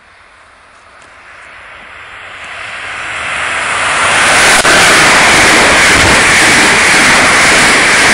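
Amtrak Northeast Regional train led by an ACS-64 electric locomotive passing at speed: a rushing noise of wheels and air that swells steadily as it approaches, becoming very loud about four and a half seconds in, then a steady loud rush as the ten cars go by.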